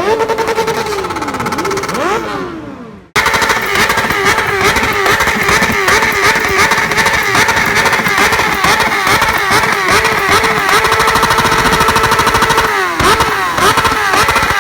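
Motorcycle engine revved hard, rising and falling in pitch, until a sudden cut about three seconds in. Then a motorcycle engine is held at high revs with a fast, wavering bounce for about ten seconds, dropping briefly near the end before coming back up.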